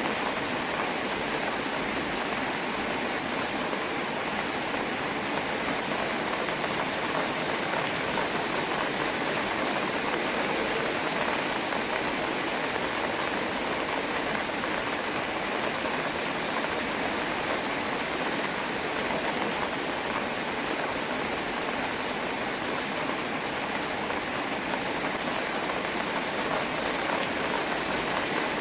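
Steady rain falling, an even hiss in which no single drops stand out.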